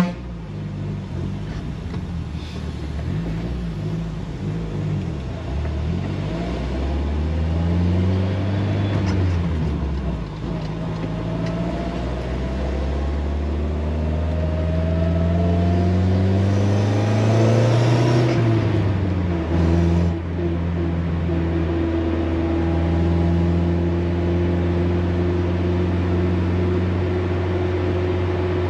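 Car engine heard from inside the cabin, running low at a stop and then pulling away: its pitch rises, drops at a gear change about ten seconds in, climbs again and drops at another shift a few seconds later, then holds steady at cruising speed.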